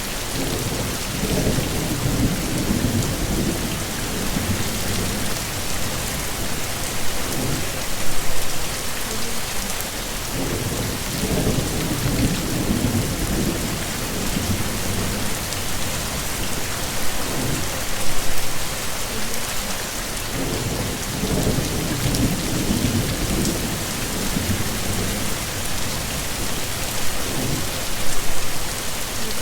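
Heavy rain falling steadily, with low rolls of thunder rumbling in and fading about every ten seconds.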